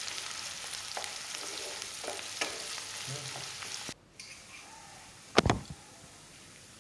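Chopped onions sizzling as they fry in hot oil in a pan, with small clicks of a spatula stirring them. About four seconds in, the sizzling cuts off abruptly; a single sharp knock follows about a second later over a quiet background.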